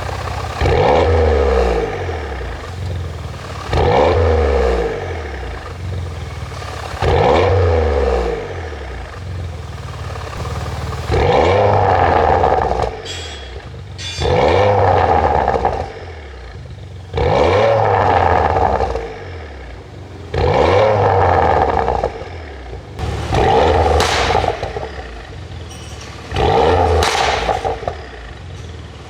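2015 Porsche Macan Turbo's twin-turbo V6 being blipped about nine times, roughly every three seconds, each rev falling back to idle. The exhaust crackles and pops on the overrun, an ECU tune set for pops, most sharply in the last few blips.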